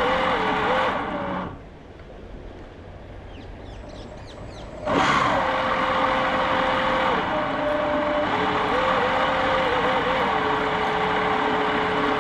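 Jet boat motor whining, its pitch stepping up and down with the throttle. The motor sound falls away about a second and a half in and cuts back in suddenly about five seconds in.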